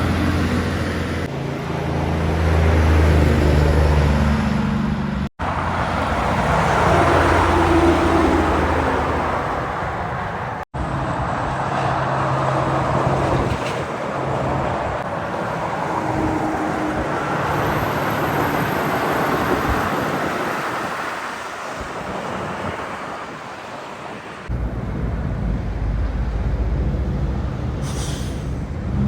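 Heavy trucks' diesel engines running as they drive by, with tyre and traffic noise, in several short takes that cut off abruptly. There is a short hiss near the end.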